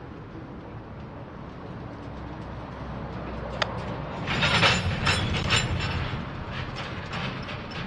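Train rolling past with a steady low rumble and wheels clacking over the rail joints. A single sharp metallic click comes a little past three and a half seconds in, then a louder run of clatter about four to six seconds in.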